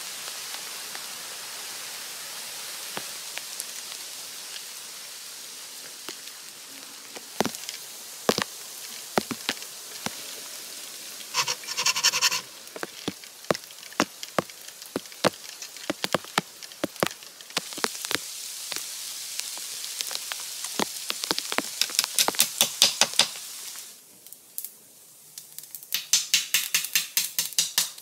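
Steady rain hiss with many sharp knocks and clicks from hands working wooden poles and branches, and several short runs of quick, rapid strokes.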